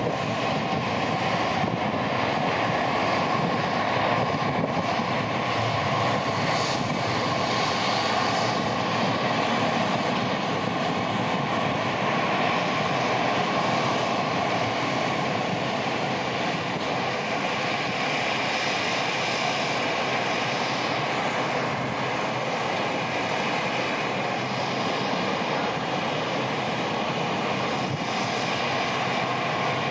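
Boeing 787-8 Dreamliner airliner jet engines, a loud, steady rush of engine noise that holds with no clear rise or fall.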